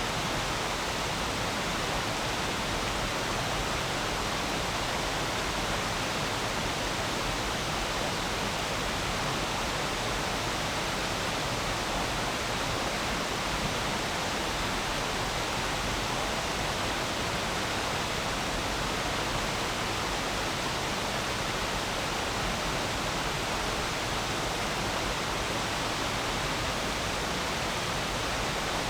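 Steady rushing of a flowing stream, an even wash of water noise without a break.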